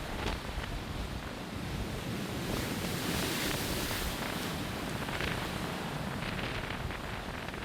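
Strong wind buffeting the microphone, a steady rushing noise that rises and falls in gusts, over Atlantic surf breaking below a pier.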